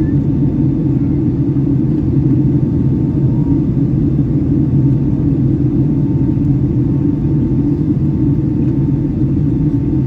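Steady, loud low drone of engine and airflow noise inside the cabin of a Boeing 757-300 in flight, with a faint thin steady tone above it.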